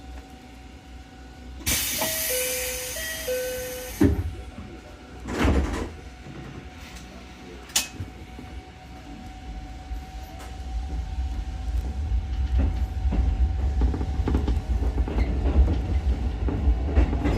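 Ichibata Electric Railway 7000-series train at a station: a door chime alternates between two tones for about two seconds, then the doors shut with a knock. A hiss of air follows, and from about halfway the train's motors start up and a low rumble grows as it pulls away.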